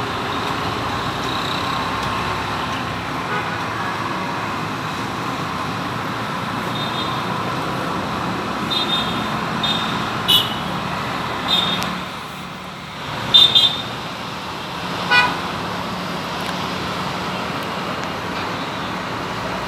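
Steady road traffic noise, with a few short horn-like toots in the middle of the stretch.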